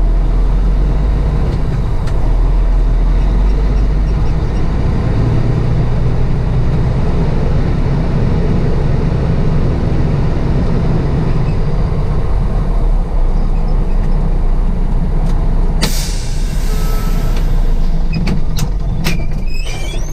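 Container truck's diesel engine running steadily, then about sixteen seconds in a sharp burst of air hiss from the air brakes, followed by a few clicks near the end.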